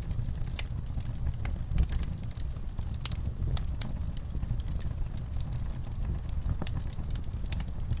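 Wood fire in a fireplace crackling: irregular sharp pops and snaps, several a second, over a steady low rumble. The loudest pop comes about two seconds in.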